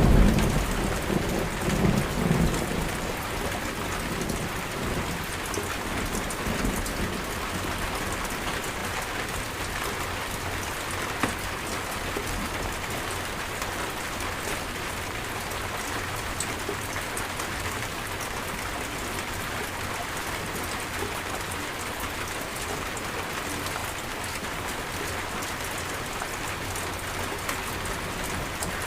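Steady heavy rain hissing, with a low roll of thunder at the start that dies away over the first few seconds.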